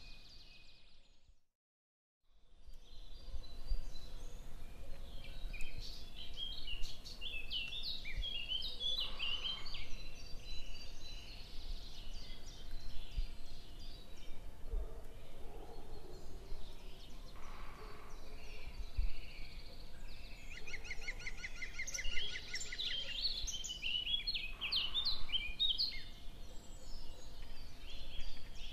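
Small birds chirping and twittering in many short high calls, with a fast rattling trill a little past the middle. The sound cuts out for about a second near the start.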